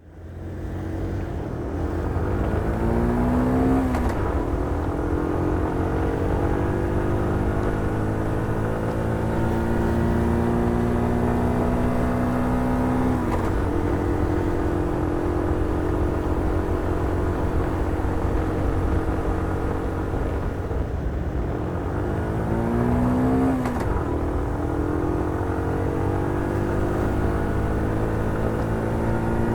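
Motorcycle engine under way. It rises in pitch as it accelerates, drops sharply on an upshift a few seconds in, holds a steady note while cruising, changes note about midway, then rises again and shifts up once more near the end.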